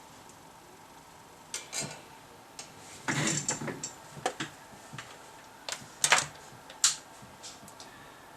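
Scattered clicks, taps and a short scraping rustle of small objects and tools being handled on a workbench. The loudest clicks come about six to seven seconds in.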